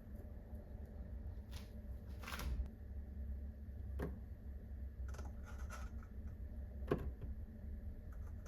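A few soft clicks and taps, a brief rustle and some small scrapes from objects being handled, over a low steady hum.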